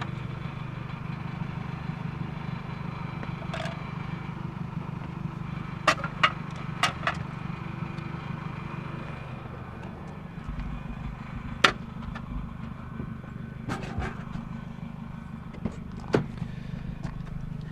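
Steady low engine hum of an idling vehicle, with a handful of sharp clinks and knocks from junk being handled, most of them in the middle and latter part.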